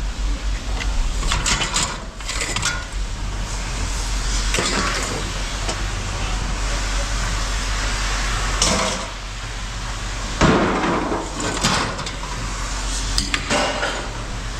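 Scrap metal being handled: scattered clanks and knocks, about eight in all, some ringing briefly, over a steady low engine hum.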